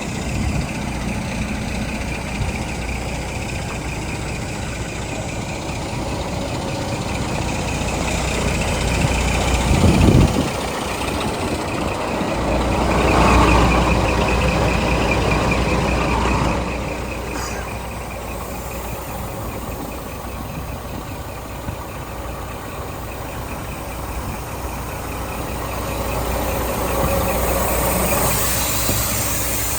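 Scania G420 tractor unit's diesel engine running steadily, swelling louder for a few seconds about 13 seconds in and again near the end.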